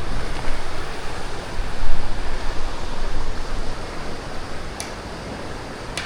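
Wind buffeting the microphone: a steady rushing noise with a deep rumble, swelling in gusts, strongest about two seconds in and easing toward the end.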